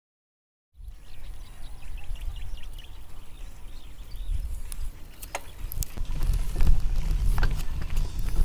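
Wind and road rumble on the microphone of a moving fixed-gear bicycle, starting about a second in and growing louder from about halfway, with a few sharp clicks and faint bird chirps early on.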